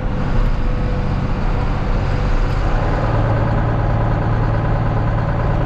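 Tractor engine running steadily under load while pulling a grain cart through a corn field; its low hum grows stronger about three seconds in.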